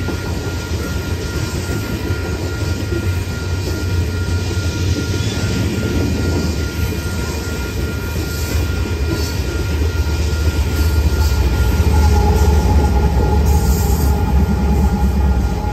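Freight train of coal hopper cars rolling past, the wheels running on the rails with a thin, steady squeal. From about two-thirds of the way in, a Union Pacific diesel locomotive passes and its deep engine rumble grows louder.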